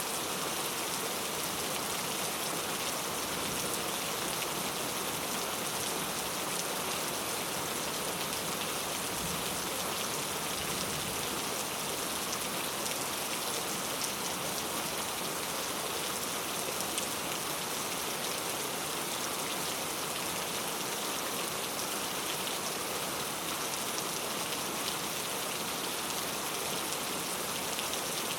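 Heavy rain falling steadily: a dense, even hiss peppered with the patter of countless individual drops.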